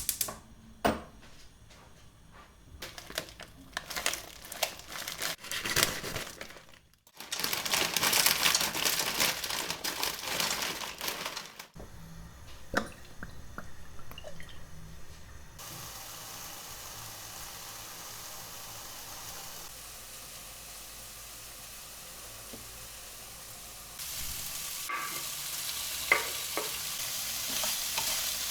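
A run of kitchen sounds in short cuts: clicks and handling of utensils and dishes, a loud stretch of rushing noise, then a steady sizzle of food frying in a pan, with a few knocks near the end.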